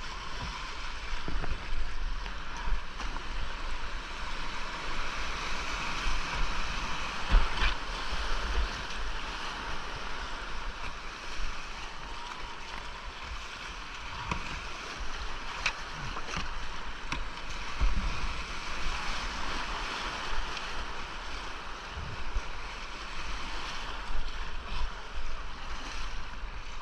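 Whitewater creek rapids rushing steadily around a kayak, with scattered splashes from paddle strokes and wind buffeting the camera microphone.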